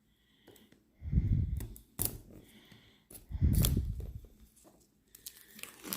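Boxed oracle card deck being unwrapped by hand: rustling and handling noise with a few sharp clicks, and two louder low rubbing sounds about a second in and about three and a half seconds in.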